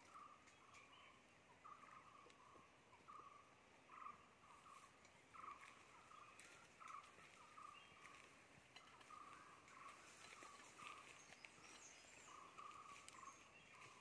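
Faint bird call: a short, mid-pitched note repeated steadily, a little faster than once a second, with a few fainter high chirps from other birds partway through.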